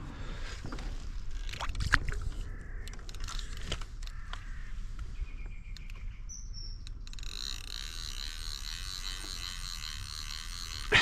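Birds chirping and calling in the open air, with a few light knocks and handling sounds. In the second half a steady, rapid chirring comes in, and a sharp knock lands at the very end.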